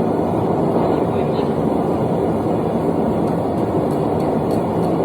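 Propane forge burner running with a loud, steady rush.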